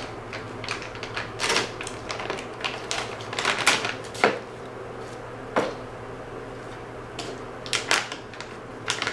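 Plastic dog-treat bag being handled and opened, crinkling and crackling in irregular short bursts.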